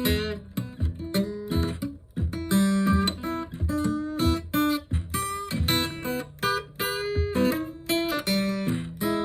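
Acoustic guitar playing an instrumental intro, a steady run of picked notes and strummed chords, recorded on a phone's microphone.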